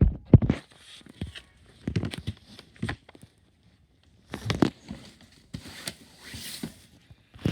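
Handling noises of things being moved about: a few knocks and thuds, loudest right at the start and again about four and a half seconds in, then a stretch of rustling around six seconds in.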